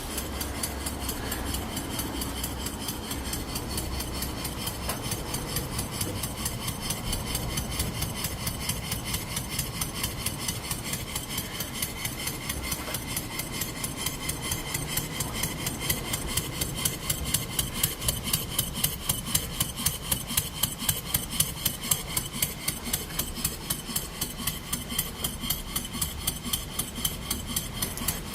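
Model stationary engine built from Stuart Models James Coombes castings, running on compressed air: an even, rapid rhythm of mechanical clicks and air exhaust beats from the turning engine. The beats stand out a little more in the second half.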